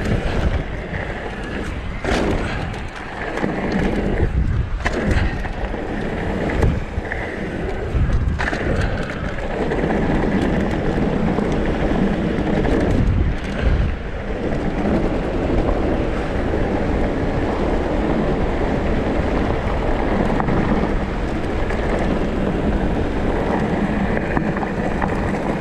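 Wind rushing over the microphone and tyres rumbling over a dirt trail as a downhill mountain bike rides fast, with several thumps and rattles from bumps in the first half.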